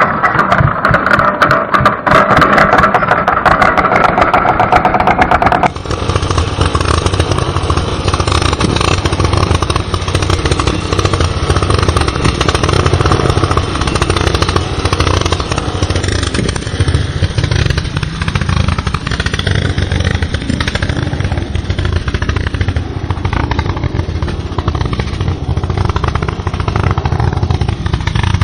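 A motor running steadily. About six seconds in it changes abruptly from a clattering, higher-pitched run to a deeper, steadier one.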